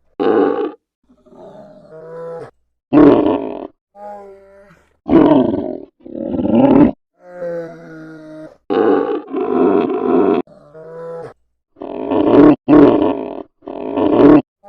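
Polar bear vocalizing: about nine loud, rough grunting calls of under a second each, several in quick pairs, alternating with quieter calls held on a steady pitch.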